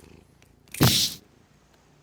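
An elastic smartphone strap snapping back once, a sharp smack about a second in lasting under half a second. Faint cat purring sits beneath it.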